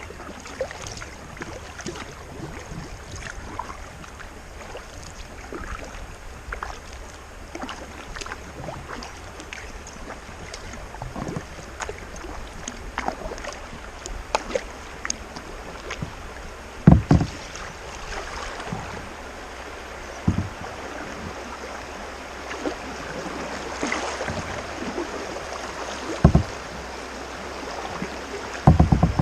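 Kayak paddling on calm water: the paddle blades dip and drip in an irregular patter, with a few dull knocks, the loudest about midway and near the end.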